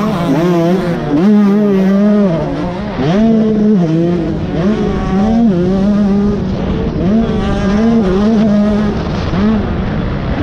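Motocross dirt bike engine revving hard and dropping off again and again, about every second or two, as the throttle is opened and closed around the track.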